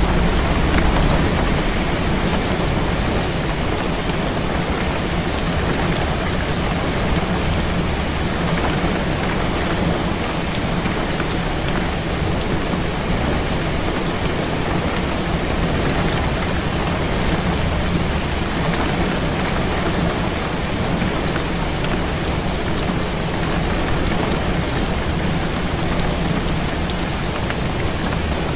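Heavy rain beating steadily on a window pane, a dense even hiss with a continuous low rumble underneath and no single clap or gust standing out.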